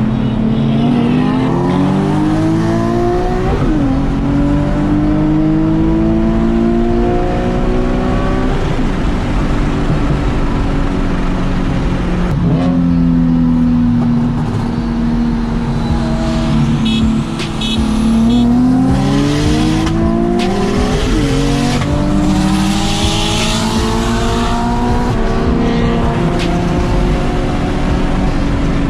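Car engine accelerating hard through the gears. The pitch climbs and drops back at upshifts about 4, 8 and 12 seconds in, falls as the car slows off the throttle, then climbs again through two more shifts. A few short high beeps sound about two-thirds of the way in.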